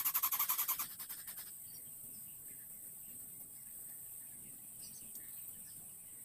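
Baby greater coucal giving a rapid rasping begging call, about a dozen pulses a second, which stops about a second in. Faint small chirps follow over a steady high hiss.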